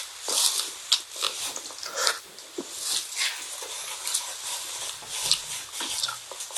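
Close-up crunching and chewing of a Gugu Cone's crisp wafer cone: irregular sharp crackles of bites and chews.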